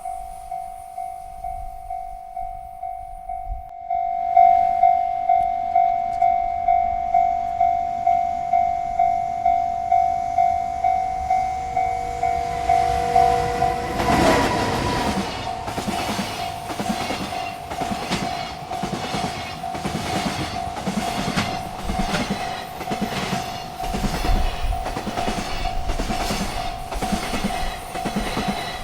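Railroad crossing bell ringing about twice a second, getting louder about four seconds in. About halfway through a freight train arrives and its wagons roll past with an even clickety-clack of wheels over rail joints while the bell keeps ringing.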